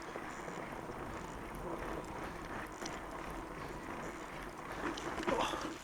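Fat bike riding along a snowy trail: a steady hiss of the wide tyres on snow mixed with wind on the microphone, growing louder and rougher near the end as the tyre bogs into deep snow.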